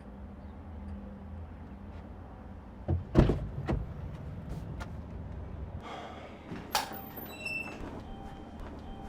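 A door being handled: two loud thuds about three seconds in, a lighter knock just after, then a sharp click with a brief metallic ring about seven seconds in, over a low steady rumble that stops about two-thirds of the way through.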